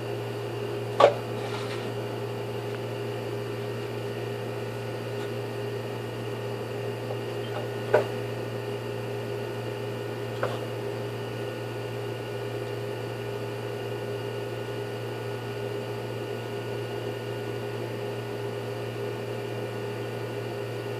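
A steady electrical hum with a few sharp clicks or knocks, the first about a second in, then two more about seven and nine seconds later.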